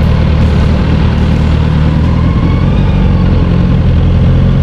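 Kawasaki Z900RS Cafe's inline-four engine running steadily as the motorcycle rides along.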